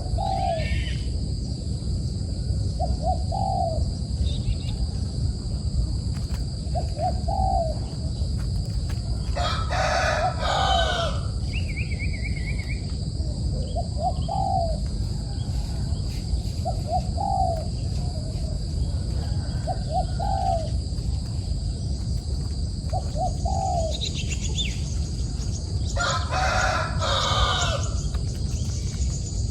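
A rooster crowing twice, about ten seconds in and again near the end, with short, low, upward-inflected calls repeating every two to three seconds in between, over a steady low rumble and a steady high drone.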